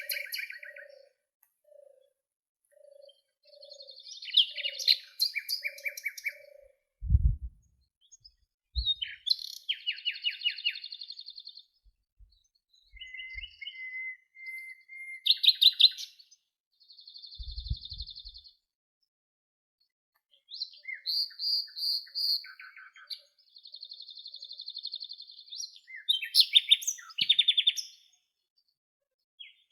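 Songbirds singing in separate phrases of high whistles and rapid trills, with short silent gaps between them. A soft low note repeats about twice a second for the first few seconds. Two brief low thumps come about a quarter and about three fifths of the way through.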